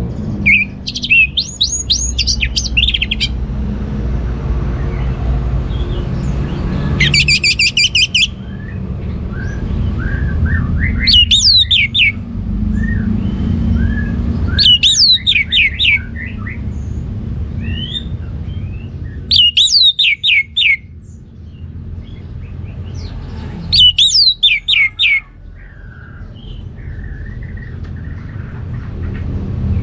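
Orange-headed thrush singing in full voice: six short phrases of rapid, high, repeated notes, each about a second long and a few seconds apart, over a steady low background rumble.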